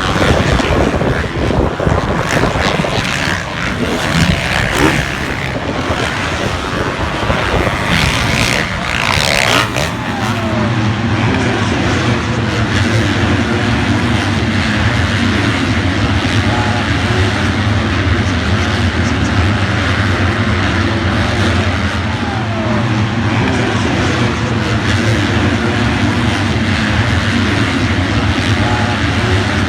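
Motocross bike engine running hard, heard through an onboard GoPro with wind noise. The first ten seconds are rough and noisy with knocks, then it settles into a steady drone.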